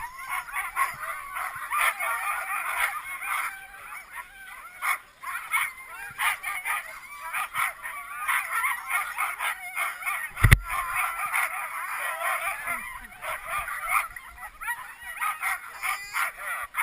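Many sled dogs yelping, yipping and howling together in a dense, overlapping chorus of high-pitched cries. A single sharp knock comes about ten seconds in.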